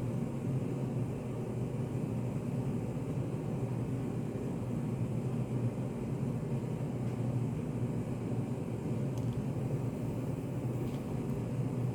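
Steady low hum of study café room ambience, even and unchanging, with a few faint light clicks about nine to eleven seconds in.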